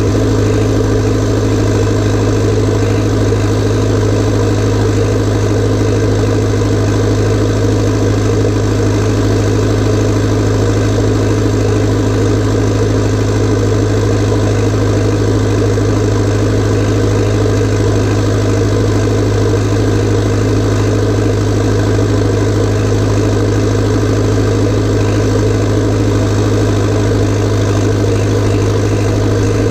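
Massey Ferguson tractor's diesel engine running at a steady, constant speed, with a strong low hum.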